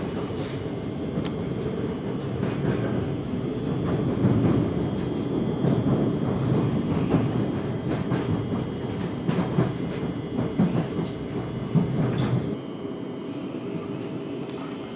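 Thameslink electric train running on the track: a steady wheel-and-rail rumble with scattered clicks over rail joints. About twelve seconds in the rumble drops away, leaving a quieter steady hum with a faint high whine.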